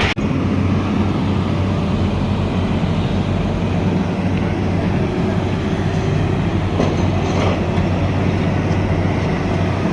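Steady mechanical rumble with a constant low hum, running without a break.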